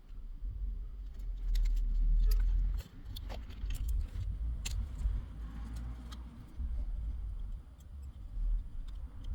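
Low rumbling handling noise with a scatter of small sharp clicks and taps as a cable receiver and its antenna connector are worked on by hand with tools. The clicks cluster in the first half.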